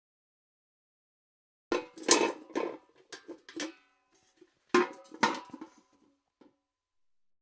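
A steel bucket clanking as it is knocked and handled: a quick run of clanks and rattles nearly two seconds in, then two louder clanks about five seconds in, each followed by a metallic ring.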